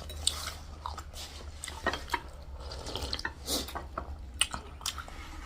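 Close-up eating sounds: a scatter of short wet smacks and clicks from someone chewing and slurping noodle soup.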